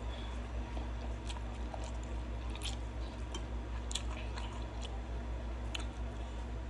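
A person chewing a mouthful of noodles, with scattered short wet mouth clicks and smacks, over a steady low hum.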